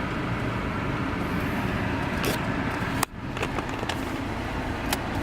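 Steady road and engine noise inside a moving car's cabin, with a sharp click about three seconds in.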